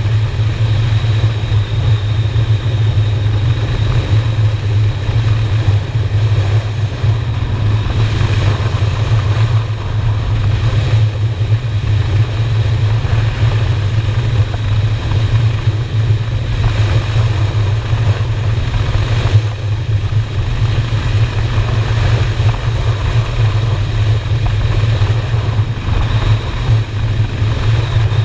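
Motorcycle's V-twin engine running steadily under way at road speed, a constant low drone.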